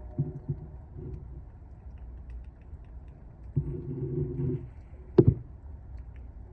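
Train horn sounding several steady notes at once: a few short toots in the first second, then a longer blast of about a second starting about three and a half seconds in, over a low rumble. A single sharp knock comes a little after five seconds.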